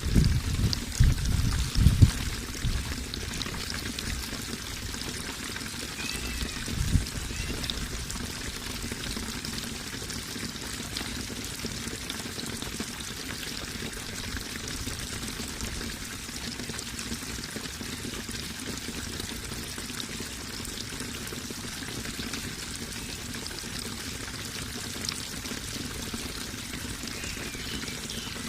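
Running water pouring and trickling steadily, with a few deeper splashes in the first two seconds and again about seven seconds in.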